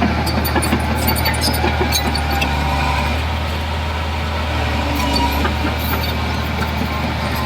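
Heavy diesel construction machinery running steadily under a low, even drone, with scattered light metallic clicks and ticks over it.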